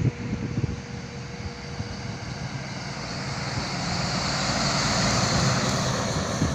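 Highway traffic noise: a steady low rumble with a rushing tyre-and-wind sound that swells to its loudest about five seconds in and then eases, as a vehicle passes.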